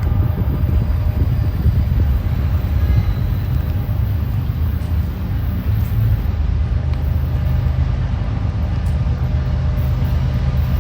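Train running steadily with a low rumble, most likely a diesel locomotive's engine at close range.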